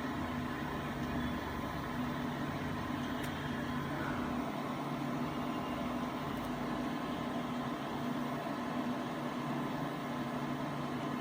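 A steady mechanical hum with a low drone that does not change.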